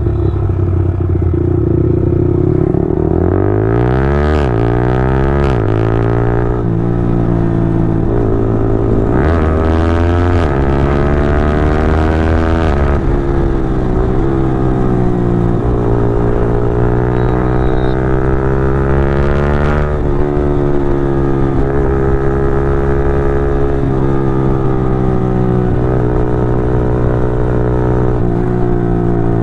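Yamaha R15 V4M's single-cylinder engine through a Leovince full-system exhaust, accelerating with clutchless quickshifter upshifts: the revs climb, then drop abruptly with a sharp crack at each shift, several times in the first half. After that it runs steadier, the revs rising and falling gently while cruising.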